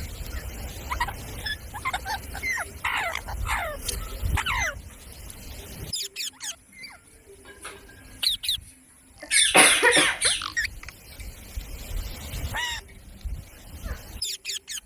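A parrot calling: a run of short, quick calls sliding in pitch, then sparser calls and one loud, harsh squawk about ten seconds in.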